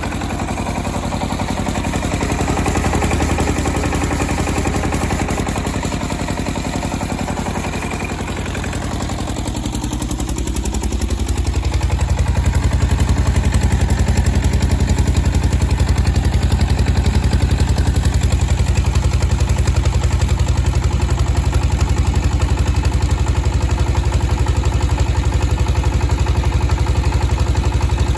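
SD1110 engine driving a generator during a load test. About ten seconds in its note dips and changes, and from then on it runs louder and deeper at a steady pace.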